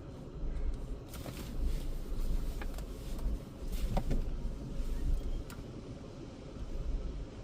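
Car idling, heard from inside the cabin: a steady low rumble with a few scattered clicks and knocks.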